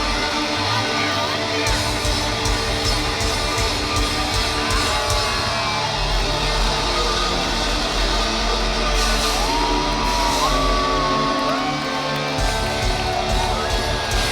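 Hard rock band playing live in a large hall: distorted electric guitars and drums, with a pitched lead line that bends up and holds in the second half. Audience yells and whoops can be heard.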